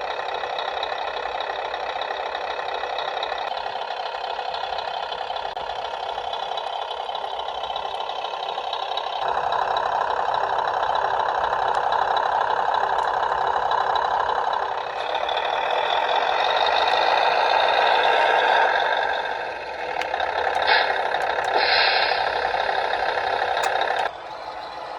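Sound unit of a Tamiya Scania R730 RC model truck playing a simulated V8 truck engine through its small speaker, with little bass. It idles, then revs up in two steps, drops back, and gives two short air-brake hisses before falling back near the end.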